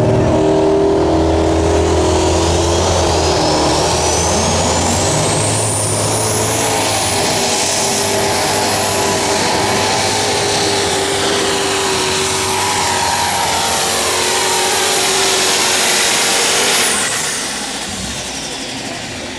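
Unlimited Super Stock pulling tractor's turbocharged diesel engine running hard under full load. A high turbo whine rises over the first several seconds and then holds steady, before the engine winds down and the noise falls away near the end.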